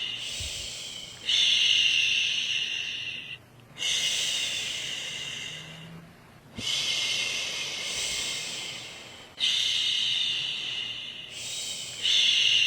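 A woman's long 'shhh' shushing, repeated about every two and a half seconds. Each shush starts suddenly, fades away, and is followed by a short pause for breath. It is the steady shushing used to soothe a baby to sleep.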